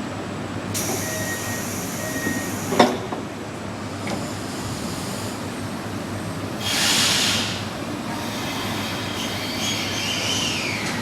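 Train at a station platform: bursts of compressed-air hiss, a sharp clack about three seconds in, and a wheel squeal gliding down in pitch near the end, over a steady rumble.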